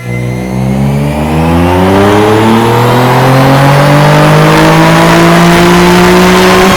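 Twin-turbo Nissan 370Z's built 3.7-litre VQ37HR V6 on a chassis dyno, making a loud full-throttle pull: the engine note climbs steadily in pitch for nearly seven seconds and breaks off near the end.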